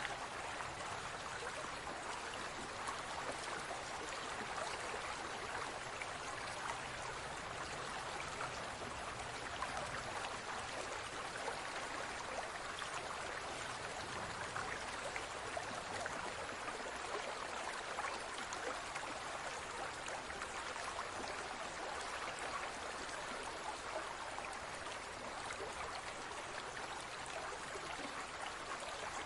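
Steady trickling and bubbling of water in a large aquarium, the continuous splash of the tank's circulating water with many small droplet pops, unchanging throughout.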